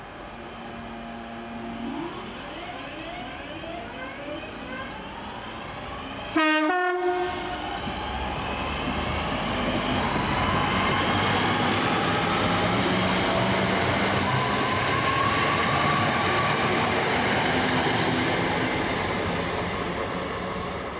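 Northern Class 323 electric multiple unit moving through the station, its electric traction motors whining and rising in pitch, with a short horn blast about six and a half seconds in. The wheels and motors then grow loud as the train passes and fade near the end.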